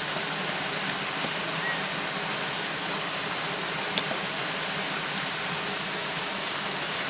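A steady, even hiss with one faint click about four seconds in.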